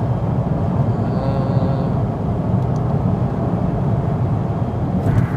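Steady low rumble of road and engine noise heard inside a moving car's cabin, with a brief faint pitched sound a little over a second in.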